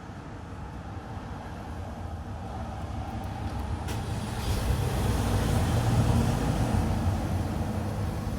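Toyota Alphard (30-series) engine running, growing louder about four seconds in and easing off near the end, with a single sharp click just before it swells.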